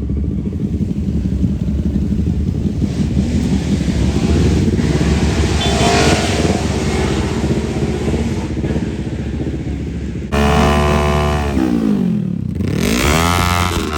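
Small single-cylinder drag mini bike engines running. About ten seconds in the sound changes suddenly to one engine whose pitch drops, then climbs steeply as it revs up.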